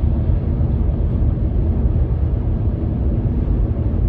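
A steady, loud low rumble of background noise that does not change, without distinct events.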